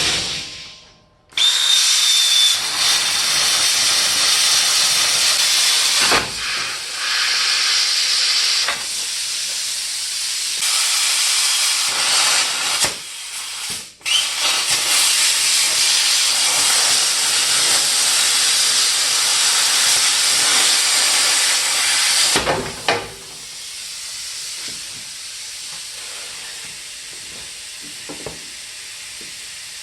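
Loud, steady hiss of a metal-cutting tool cutting through steel. It starts abruptly about a second in, breaks off briefly near the middle, then runs again and stops about 22 seconds in.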